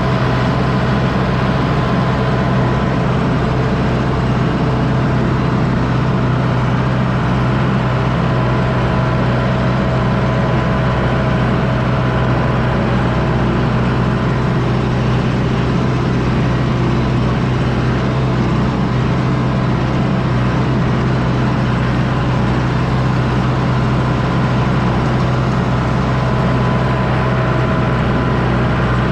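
John Deere 6110D tractor's diesel engine running steadily while pulling a disc harrow, a constant low drone with a faint steady whine above it.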